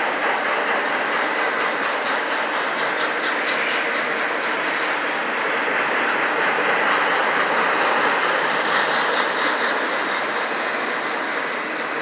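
Freight train of autorack cars rolling past: a steady rumble and rattle of steel wheels on the rails, with faint regular clicks as the wheels pass over rail joints.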